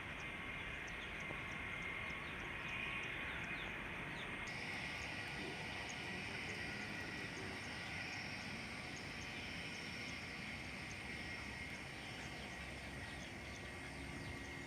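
Steady outdoor background noise: an even distant rumble with a thin, steady high hum and faint chirps on top.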